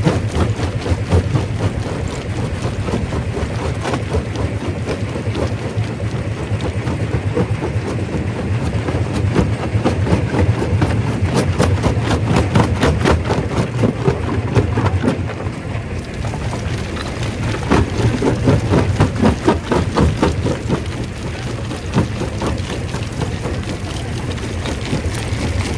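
Primary rock crusher working: a steady low drone under dense, irregular clatter and cracking of rock being broken, heavier in two stretches partway through.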